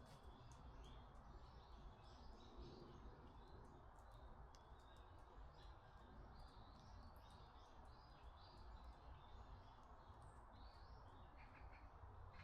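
Faint birdsong in woodland: small birds giving short, high chirps over and over, with a steady low background rumble underneath.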